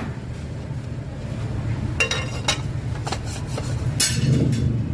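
Metal parts and tools clinking and tapping over a steady low rumble, with a few sharp clinks in the second half.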